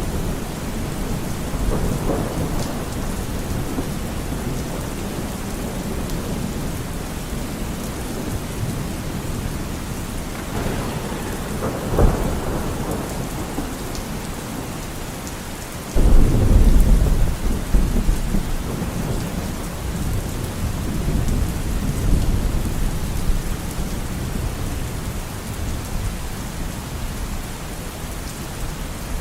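Steady rain with thunder rumbling through it. There is a sharp crack about twelve seconds in, and a loud clap begins suddenly about sixteen seconds in, then rumbles away over several seconds.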